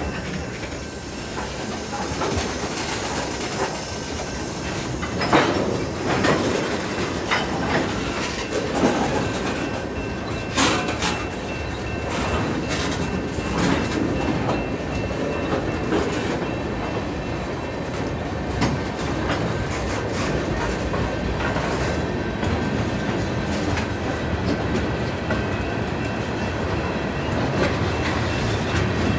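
Freight train of tank cars and covered hoppers rolling slowly past, its wheels clacking and knocking irregularly over the rail joints under a steady rumble.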